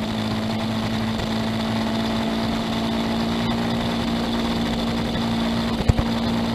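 Honda CBR500R's parallel-twin engine running at steady revs while the motorcycle rides through a bend, with wind noise. A single short knock comes about six seconds in.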